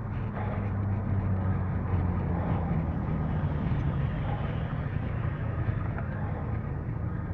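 Steady vehicle noise: a low, even engine hum under continuous road noise.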